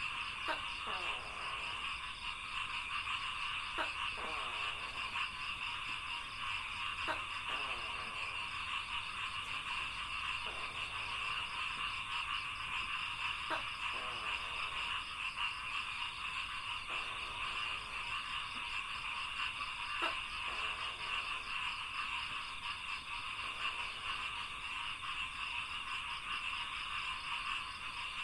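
Dense, steady chorus of rice-paddy frogs croaking, with one sharper call that recurs about every three seconds.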